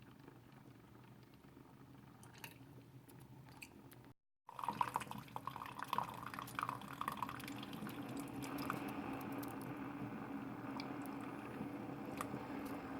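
Compact stovetop camping percolator perking: water bubbling up and coffee dripping back through the basket, quiet at first, then louder and busier after a short break about four seconds in.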